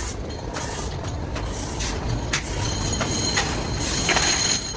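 Factory machinery running steadily, with scattered sharp clicks and a steady high whine that sets in a little over halfway through.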